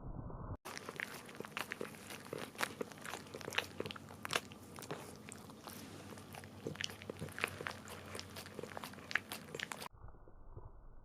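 A Cavalier King Charles Spaniel licking almond butter off a plastic bag: quick, irregular wet licks and smacks against the plastic, starting about half a second in and breaking off near the end.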